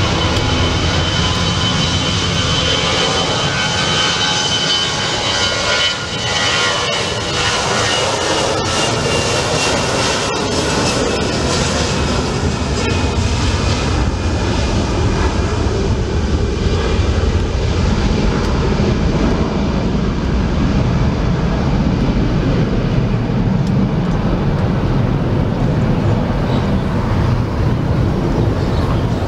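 Jet airliner's engines at takeoff power: a loud, steady deep rumble with a high whine that slowly falls in pitch as the aircraft passes and moves away.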